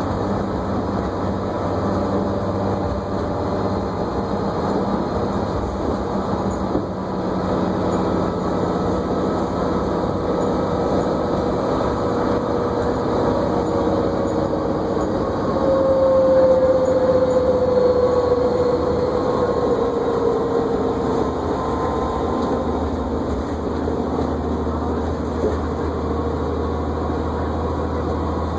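Cabin sound of a New Flyer D40LFR diesel transit bus underway: steady engine and road noise. About halfway through, a whine grows louder and slides down in pitch over several seconds.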